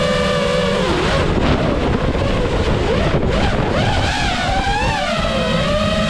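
Motors and propellers of a 7-inch FPV quadcopter whining. The pitch holds steady for about a second, then rises and falls repeatedly as the throttle changes.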